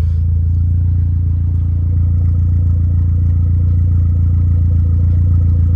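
Dodge Neon SRT-4's turbocharged 2.4-litre four-cylinder running steadily at low revs in first gear, getting slightly fuller about two seconds in. The freshly built engine sounds healthy.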